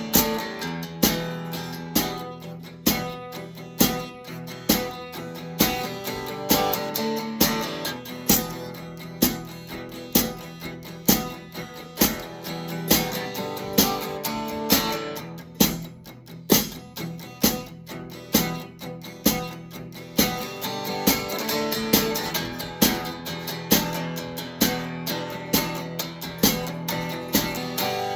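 Instrumental music: a guitar strummed in a steady rhythm, with no singing.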